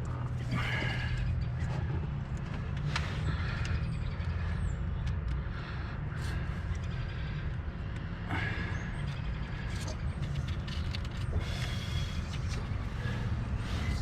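Scattered clicks, taps and scrapes of hands and tools working on wiring connectors in an engine bay, over a steady low hum.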